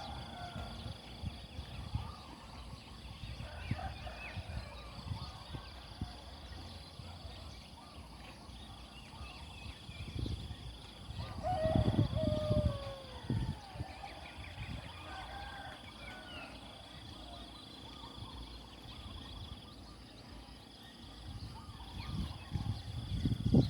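Outdoor rural morning ambience: an insect's high steady buzz coming and going in stretches of a second or two, with scattered bird calls. About twelve seconds in, a louder call slides down in pitch. A low rumble runs underneath.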